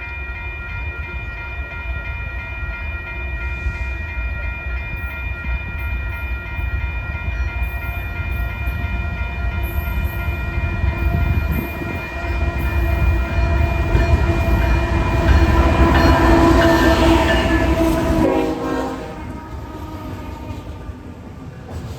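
Locomotive air horn sounding in one long blast over the low rumble of an approaching train. It grows louder, then cuts off about 18 seconds in, and the rumble falls away.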